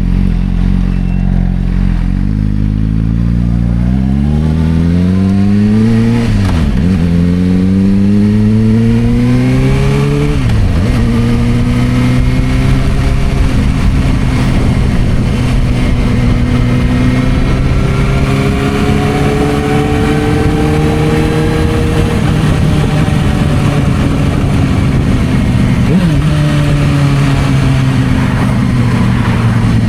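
Suzuki GSR600 inline-four motorcycle engine through an aftermarket Dominator exhaust, pulling away from idle. The revs rise and drop back twice at upshifts, then the bike cruises at fairly steady revs with one more shift near the end.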